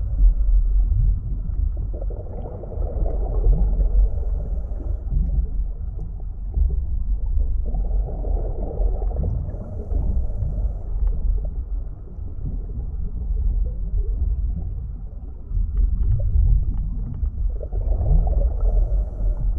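Deep-ocean underwater soundscape: a constant low rumble with short rising low sweeps, and three slow, swelling moans rising and fading over a few seconds each.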